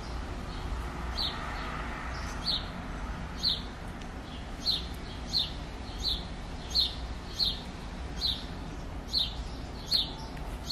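A small bird chirping over and over: a short, high chirp roughly once a second, over a low steady rumble.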